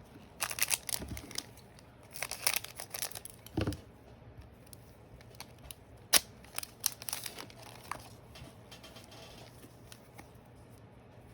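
Plastic card packaging and trading cards being handled, crinkling and rustling in two bursts over the first four seconds. A single sharp click comes about six seconds in, followed by lighter rustling.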